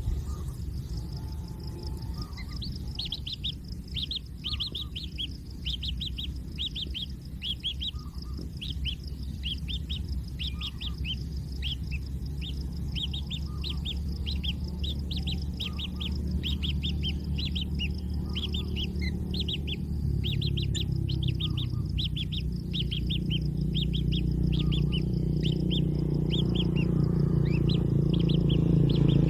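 Kingfisher chicks chirping: a long run of short, high chirps several a second, over a steady high whine. A low rumble grows louder through the second half.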